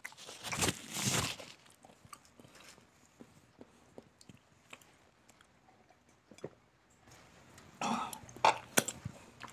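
Close-miked chewing of a mouthful of rice and fried chicken, with small wet mouth clicks. A breathy, cough-like burst comes about a second in and another near the end.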